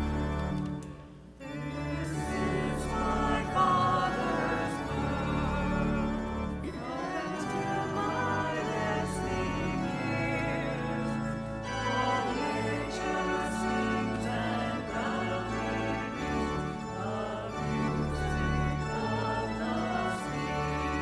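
Organ playing a hymn with voices singing along, after a brief break about a second in.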